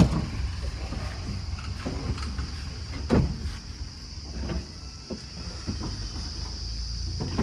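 Truck engine running with a low steady rumble, with several knocks and clunks, the loudest about three seconds in.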